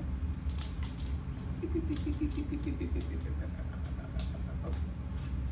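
Small dog's nails clicking and tapping on a hard floor, with a quick run of short whimpers about one and a half seconds in, over a steady low hum.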